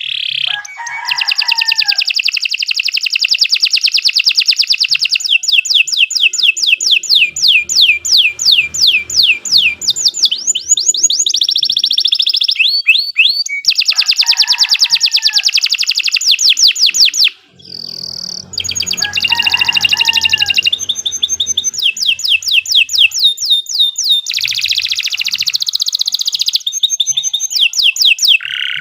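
Domestic canary singing long, unbroken rolls of rapid high trills. It pauses briefly about two-thirds of the way through.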